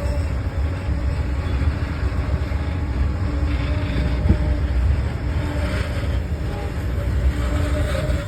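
Goods train rolling past, a steady heavy rumble of wagons on the track, with a brief click about four seconds in.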